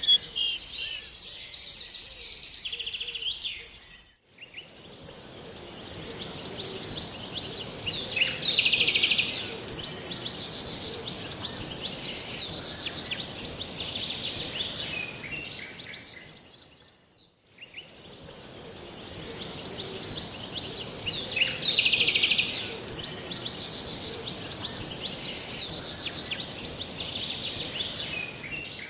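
Birds chirping and singing over a steady high hiss, with a burst of quick trills about eight seconds in and again about twenty-one seconds in. The same stretch of song repeats about every thirteen seconds, fading out briefly between repeats.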